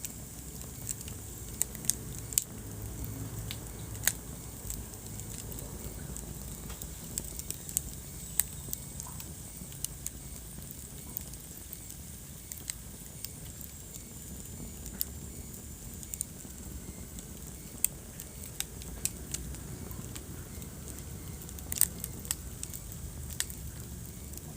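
Wood fire burning in a fireplace: irregular sharp crackles and pops, a few of them louder, over a steady low rumble.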